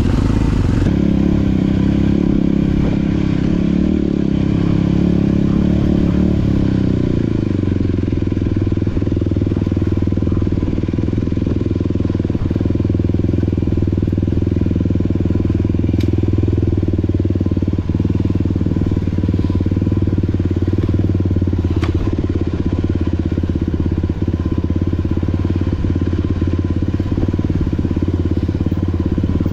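Motorcycle engine running at steady throttle, heard from the rider's own bike while riding a dirt track. The revs drop about six seconds in and then hold steady, with a couple of sharp ticks later on.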